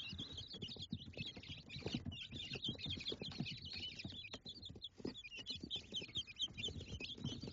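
Small birds chirping continuously, a dense run of short high chirps, with soft irregular knocks and rustling underneath.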